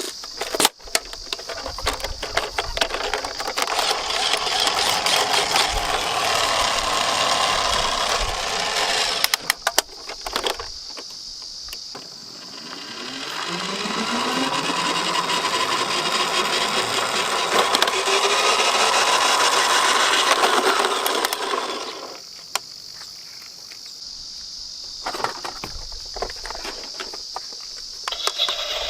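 Toy minicars (miniature garbage trucks and ambulances) rolling down a steep slope: a rattling whir of small plastic wheels, rising in pitch as they pick up speed, with sharp clicks and knocks as the cars bump the track and each other.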